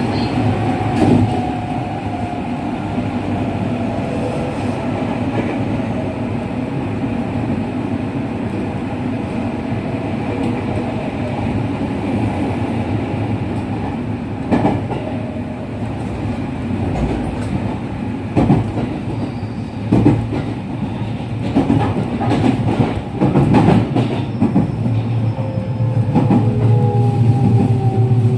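Running sound heard aboard a JR West 207 series electric train whose original traction motors have not been replaced. The motor and inverter whine falls in pitch at the start and again near the end, over the steady rumble of the wheels. Several sharp thumps come in the second half as the wheels cross rail joints.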